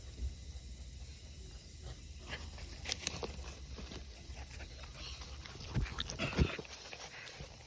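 Senior dog making sounds close to the microphone: a few short sharp noises about three seconds in, and two louder ones around six seconds in.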